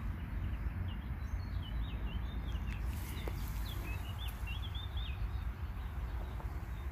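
A small songbird sings a quick run of short, looping chirps, starting about a second in and stopping about five seconds in. Under it runs a steady low outdoor rumble.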